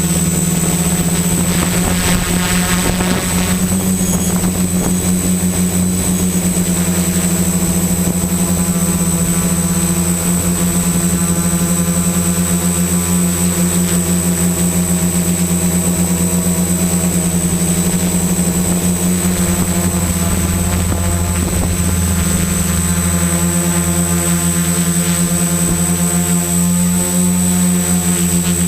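XAircraft X650 Pro V4 quadcopter's electric motors and propellers running in flight: a loud, steady drone with a constant high whine above it, the pitch wavering slightly as the motors adjust.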